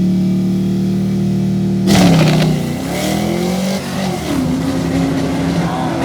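Drag car engine at full throttle down the strip, holding a high steady note. About two seconds in there is a sharp snap and the pitch drops, then climbs again: a gear change under power.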